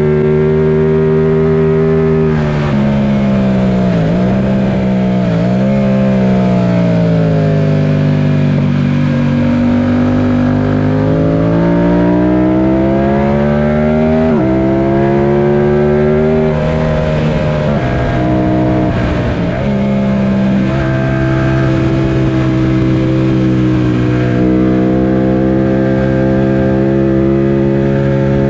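Yamaha FZ-07's parallel-twin engine ridden hard, revs rising under acceleration and falling away repeatedly, with quick drops in pitch at the gear changes.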